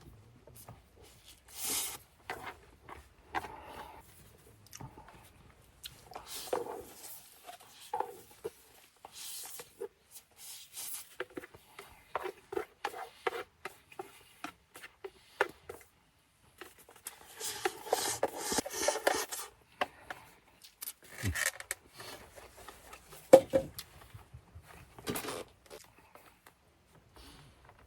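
Scattered small handling noises: rubbing, scraping and light taps, with a longer rustle of about two seconds past the middle and one sharper knock later on.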